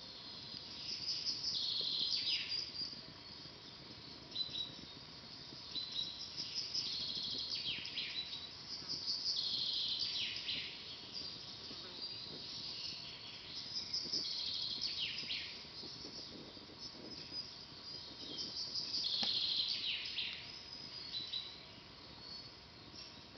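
Songbirds singing in a forest: short repeated phrases every few seconds, each a high trill that slides downward at the end. Under them a low steady background with a few faint crackles from a campfire.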